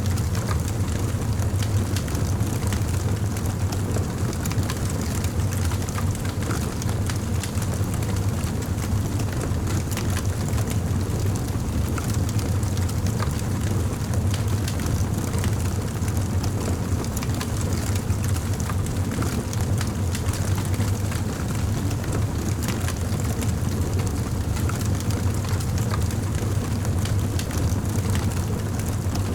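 Campfire burning: wood crackling with many small pops over a steady low rumble.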